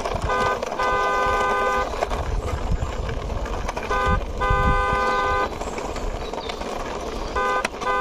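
Car horn honking in a short-then-long pattern, a brief toot followed by a steady note of about a second, repeated three times at about three-and-a-half-second intervals, over a low rumble.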